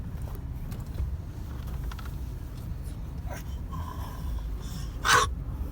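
Steady low rumble, with a short, loud breathy sound like a gasp about five seconds in.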